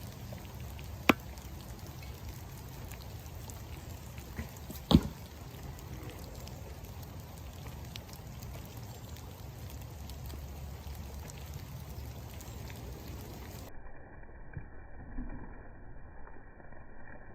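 Steady rain falling, with two sharp knocks: one about a second in and a louder one about five seconds in.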